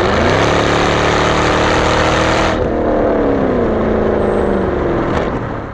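Chevrolet Camaro SS's 6.2-litre V8 exhaust, fitted with an H-pipe and a valved axle-back muffler, revving. The pitch rises just after the start, holds high, then drops back as the throttle closes about halfway through.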